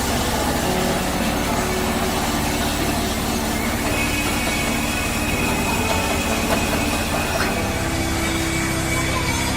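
Steady mechanical drone of running workshop machinery, with a thin high whine that sets in about four seconds in and holds.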